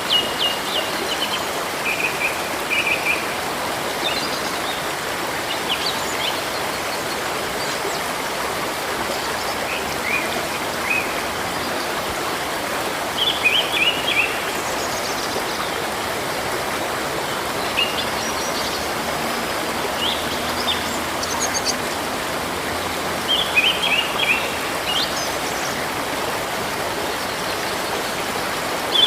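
Flowing river water running with a steady rush, while small birds chirp in short bursts of quick notes every few seconds.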